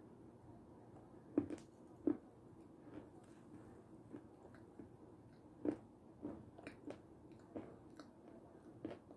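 Close-up biting and chewing of a crumbly white ball: a few sharp crunchy bites, the loudest about a second and a half and two seconds in and again near the middle, with quieter crunching and chewing clicks in between.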